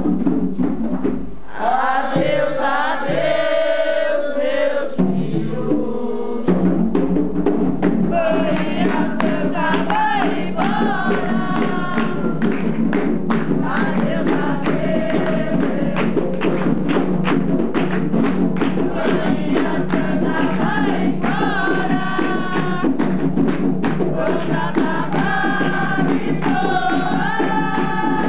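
Umbanda ponto sung by a group of voices over hand drums beating a steady rhythm. The drums drop out for a few seconds near the start while the voices go on, then come back in.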